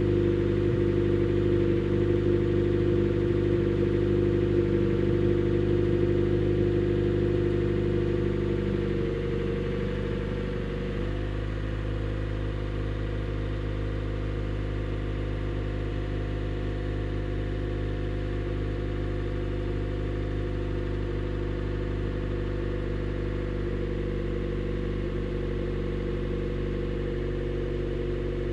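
Honda Shuttle Hybrid's 1.5-litre four-cylinder engine idling through an HKS Silent Hi-Power aftermarket exhaust, run in maintenance mode so the engine keeps running. It hums steadily, then steps down to a quieter, steady idle about ten seconds in.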